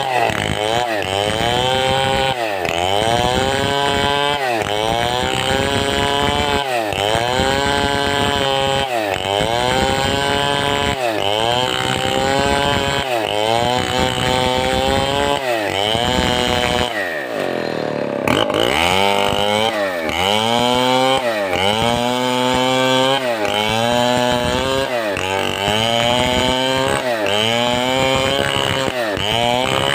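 Large 070-class two-stroke chainsaw cutting timber under load, its engine pitch sagging and recovering about once a second as the bar bites in and eases off. A little past halfway the engine drops lower for a moment, then picks back up to the same rhythm.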